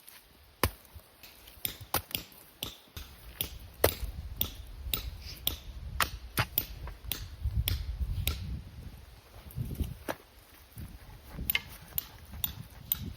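Stones and a hand tool knocking together during stone-and-earth fireplace building: a quick, irregular run of sharp knocks and clicks, with low rumbling handling noise between them.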